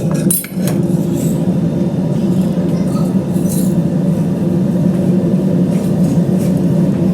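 Steady hum of a running kitchen appliance, with a few light clicks of utensils or cookware near the start and now and then after.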